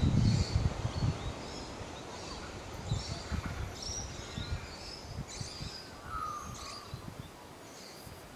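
Small birds chirping, many short high calls scattered throughout, over a low rumbling noise that dies away over the first few seconds.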